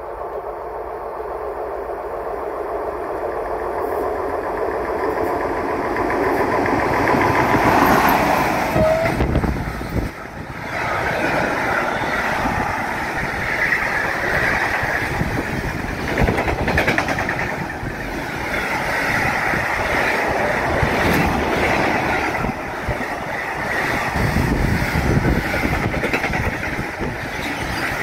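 Freight train approaching and passing close by. The sound builds to its loudest about eight seconds in as the locomotive goes past, then the long string of container wagons follows with a steady rumble and clatter of steel wheels on the rails.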